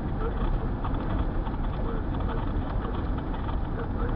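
Steady engine and road noise of a vehicle being driven, heard from inside the cabin.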